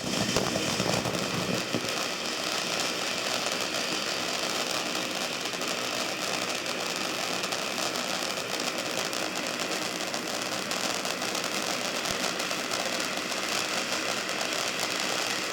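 Garden firework fountain hissing steadily, shot through with fine crackling.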